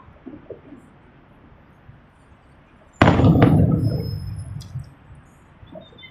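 A single firework going off about halfway through: one sharp bang whose low rumbling echo fades over about a second and a half.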